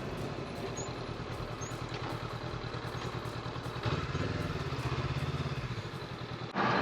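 Motorcycle engine running under way, its firing pulses steady beneath a wash of wind and road noise, a little louder from just past halfway. It cuts off abruptly near the end.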